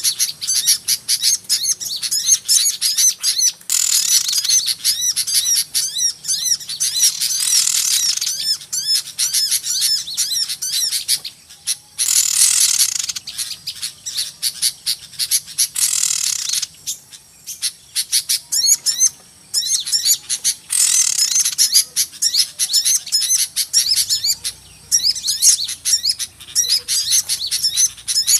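Many small birds chirping at once in a busy, rowdy chorus of rapid high-pitched notes, broken by several louder, harsher chattering stretches. This is a bird-trapper's lure call of small birds.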